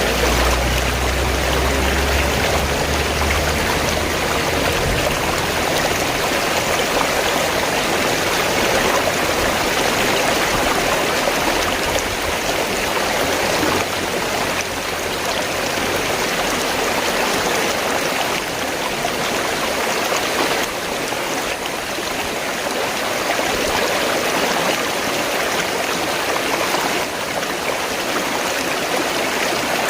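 River water rushing and splashing steadily, with a low rumble beneath it for the first few seconds.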